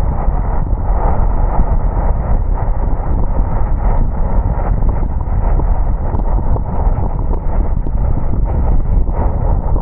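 Car driving on a wet road: a steady low rumble of road and tyre noise with many small irregular knocks running through it.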